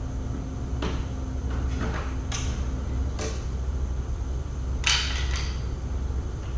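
A few short knocks and scrapes of workshop handling over a steady low hum; the loudest knock comes about five seconds in.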